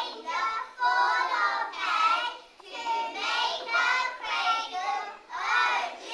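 Children's voices singing a song in short phrases of about a second each.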